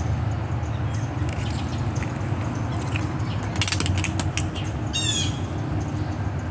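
Squirrel calling: a few sharp clicking chatters, then about five seconds in a quick run of short, high, squawking cries stepping down in pitch. A steady low rumble runs underneath.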